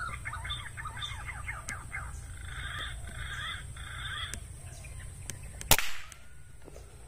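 Wild birds chattering in quick repeated notes, then a single sharp crack about six seconds in, typical of an air rifle fired at a perched green pigeon.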